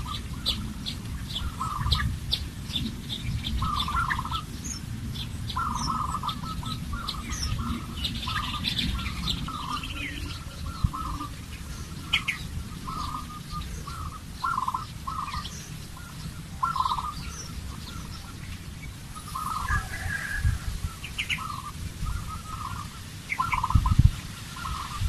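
Birds calling and chirping: a short call repeated at about the same pitch every half second to a second, with higher quick chirps over it and a steady low rumble underneath.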